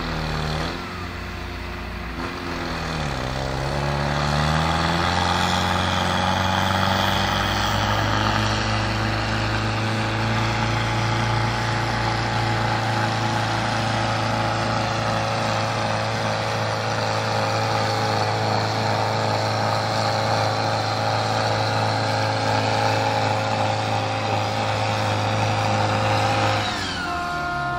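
Modified turbo-diesel farm tractor at full throttle on a fast-pulling run. Its revs dip and climb twice in the first few seconds, then hold a long steady high-rev drone for about twenty seconds before dropping away near the end.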